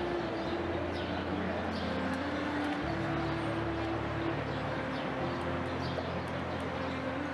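Birds calling faintly over a steady low sound that shifts in pitch every two or three seconds.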